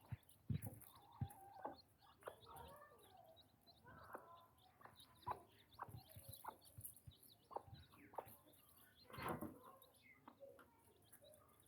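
Chickens clucking softly, short calls scattered throughout, mixed with sharp little taps and a louder burst of sound about nine seconds in.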